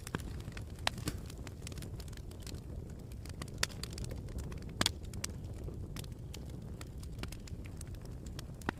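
Campfire crackling: a steady low rumble of burning wood with irregular sharp snaps and pops, the loudest about a second in, midway and near the end.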